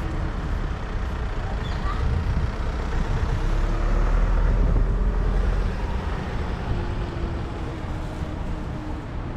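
Road traffic rumbling, swelling to its loudest as a vehicle passes in the middle, then easing off.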